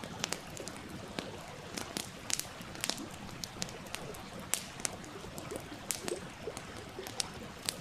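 Wood fire crackling, with irregular sharp pops, over the steady rush of a stream.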